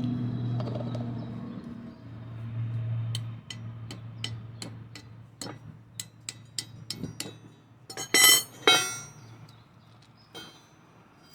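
Metal parts and tools clinking and knocking as they are handled, a string of sharp clicks with two louder clatters about eight seconds in, over a low steady hum.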